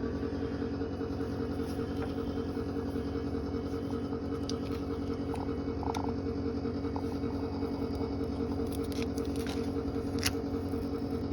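School bus engine idling with a steady hum, with a few light clicks in the middle and near the end.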